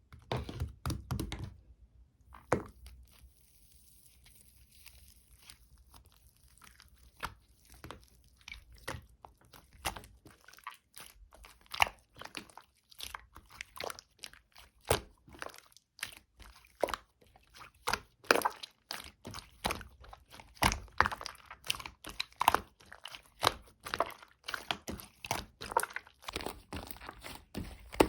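Clay-mixed slime being squished and pressed by hand, giving many sharp sticky clicks and pops, sparse at first and coming thick and fast in the second half.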